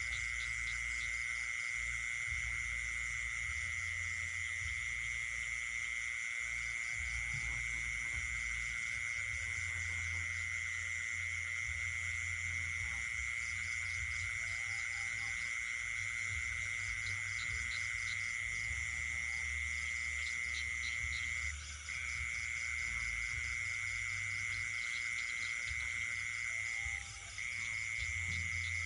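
Night chorus of frogs and insects: a steady, unbroken high-pitched insect trill with faster pulsing calls above it and occasional short frog calls lower down. The main trill cuts out briefly twice in the second half.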